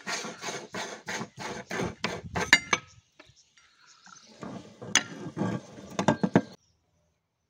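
Meat grinder grinding a Snickers bar, with rhythmic scraping strokes about three a second that stop about two seconds in. Then come ringing metal clinks and a stretch of rattling with a few sharp knocks, which cuts off abruptly.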